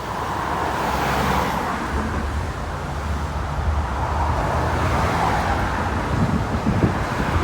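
Road traffic: a vehicle passing about a second in over a steady low engine rumble. Wind buffets the microphone near the end.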